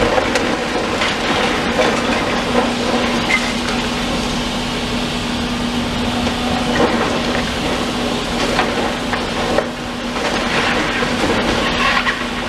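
Demolition machinery running steadily, with scattered cracks and crunches of debris being broken and moved.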